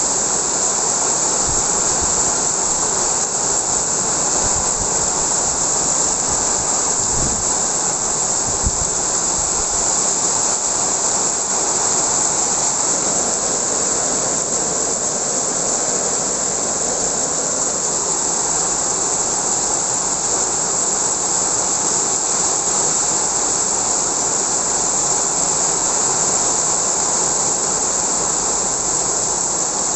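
Heavy rain pouring down in a windstorm, a steady dense hiss, with a few low rumbles of wind gusts about seven to nine seconds in.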